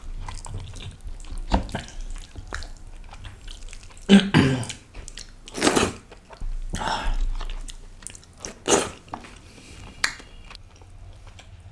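Close-miked chewing and smacking of a person eating spicy balti mutton by hand, pulling the meat apart with the fingers, in irregular louder moments several times.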